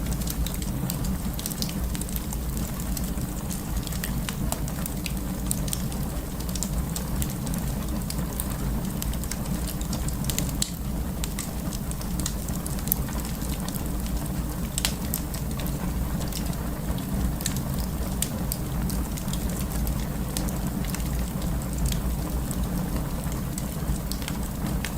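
Burning wood fire crackling: many irregular sharp crackles and pops over a steady low rumble.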